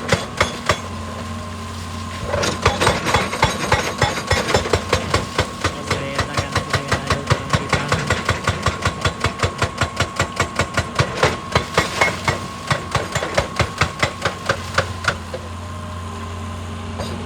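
Excavator-mounted hydraulic rock breaker hammering rock in an even run of about four blows a second. It pauses about a second in, starts again, and stops near the end while the excavator's diesel engine keeps running.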